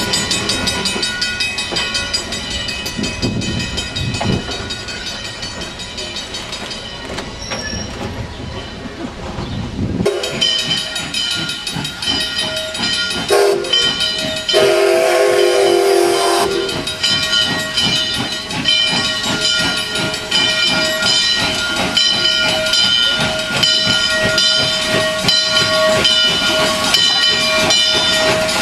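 Steam locomotive with steam hissing and steady ringing tones. About halfway through it gives a short whistle toot, then a longer steam whistle blast of about two seconds.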